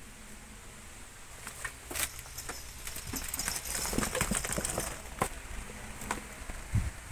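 A cat scuffling with a caught mouse: scattered light taps and rustles, more frequent about halfway through.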